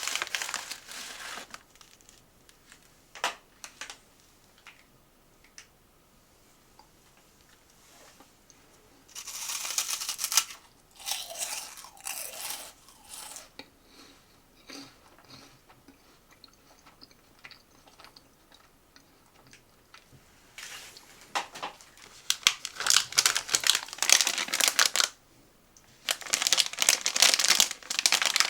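Snack packaging crinkling and tearing in several bursts, with quiet gaps and a few single clicks between them.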